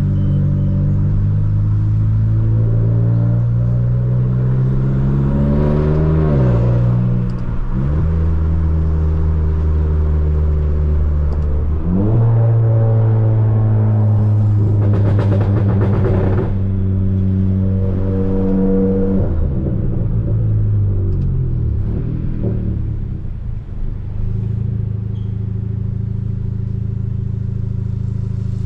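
Turbocharged Volkswagen Polo GTS, Stage 2 tuned with a sports exhaust, pulling hard through the gears: the engine note climbs, drops at each shift, climbs again, then eases off and settles into a steady cruise near the end.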